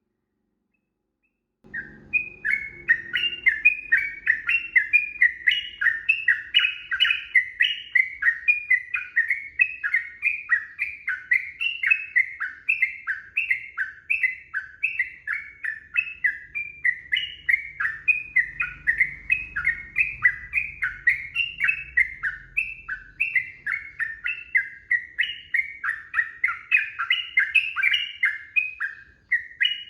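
Yellow-vented bulbul (trucukan) singing a long unbroken run of quick, repeated chirping phrases, starting about two seconds in.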